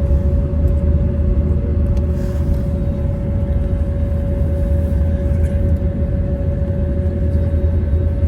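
Airbus A320 cabin noise after landing: a steady low rumble of the idling engines and airflow, with a constant whine and a fainter second tone above it.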